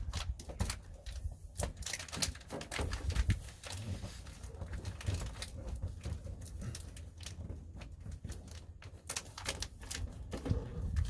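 Irregular clicks, taps and crinkles of foil-backed sound deadening mat being handled and pressed down onto a pickup's cab floor.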